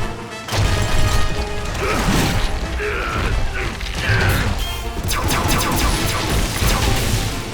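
Animated action-scene sound effects: crashes and heavy rumbling with mechanical clattering, over dramatic background music. About five seconds in comes a sweeping, falling whoosh.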